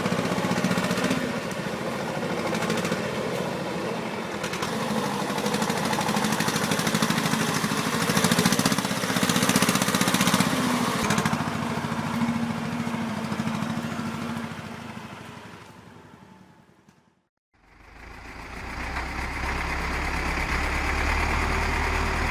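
Tractor diesel engine running with a rapid, knocking clatter, fading out about three quarters of the way in. After a brief break, another engine runs with a steadier, deeper drone.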